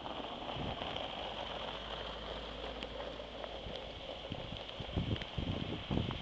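Wind in a snowstorm buffeting the microphone over a steady hiss, with a few stronger low gusts in the last two seconds.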